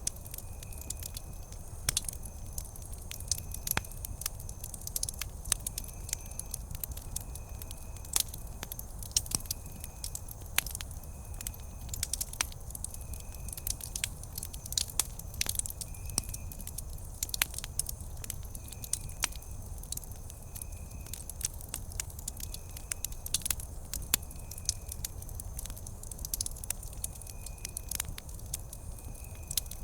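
Wood campfire burning and crackling, with sharp irregular pops over a low steady rumble of the flames. Behind it, a faint high chirp repeats about once a second.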